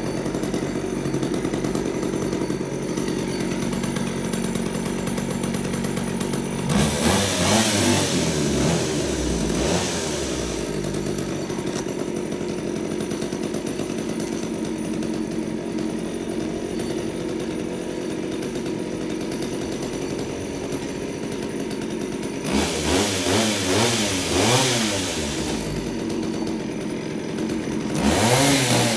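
Two-stroke engine of a chainsaw winch running steadily while it pulls the load, revved up and down in two bouts of a few seconds each and again near the end.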